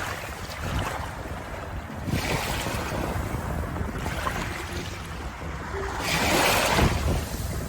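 Waves breaking and washing on a shore, the surf swelling and receding in surges a few seconds apart, the strongest about three-quarters of the way through.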